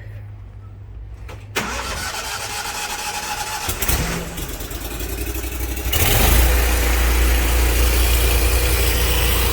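An engine starts about a second and a half in and runs, then comes up to a louder, steady speed about six seconds in.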